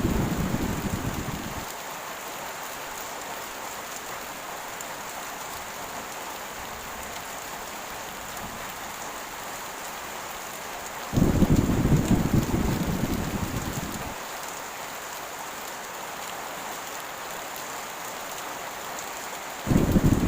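Heavy rain falling steadily, with low thunder rumbles over it: one dying away just after the start, another breaking about eleven seconds in and fading over three seconds, and a third beginning just before the end.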